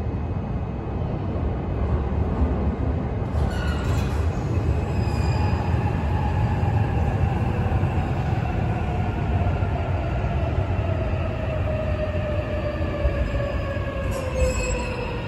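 E657-series limited express electric train pulling into a station platform and rolling slowly past, with a steady low rumble of wheels on rail. From a few seconds in, a whine falls slowly in pitch as the train brakes to a stop.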